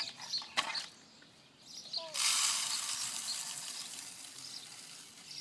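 Birdseed poured from a cup into a bird feeder: a sudden hissing rattle of seed starting about two seconds in and slowly tapering off, after a few light clicks of the cup.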